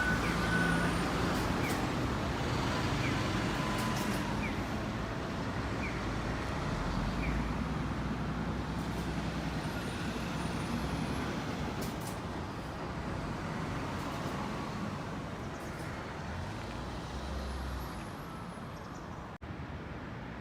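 City street traffic: the steady noise of passing cars and buses, with a low engine rumble that swells and fades as vehicles go by.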